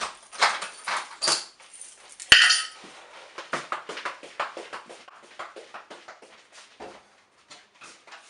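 Rapid clattering knocks and clicks, with one loud bang about two seconds in, growing sparser and fainter toward the end.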